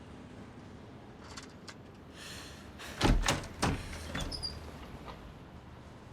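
A heavy door sliding and banging shut, with two loud clunks about half a second apart, followed by a few smaller knocks.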